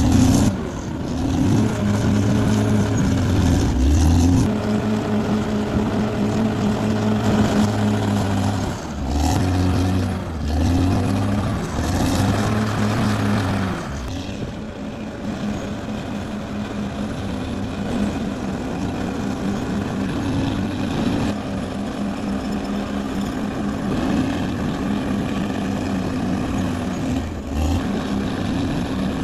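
Caterpillar D6R XL bulldozer's diesel engine running under working load. The engine note dips and recovers several times in the first half, then runs steadier.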